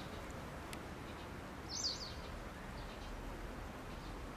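A short burst of small-bird chirps about two seconds in, over steady outdoor background noise with a low rumble of gusty wind on the microphone.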